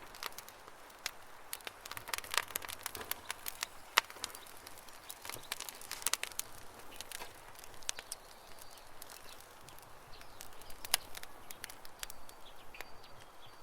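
Campfire crackling and popping: irregular sharp snaps from the burning wood, thickest in clusters a couple of seconds in and around six seconds, with one loud pop about four seconds in. Faint bird chirps come in near the end.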